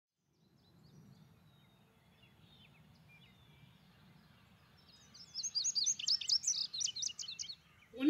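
A songbird singing: faint scattered high chirps at first, then about five seconds in a louder, quick run of high sweeping chirps lasting about two seconds. A faint low ambient rumble underneath.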